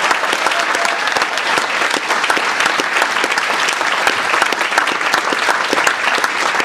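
Banquet audience applauding: many people clapping steadily at once.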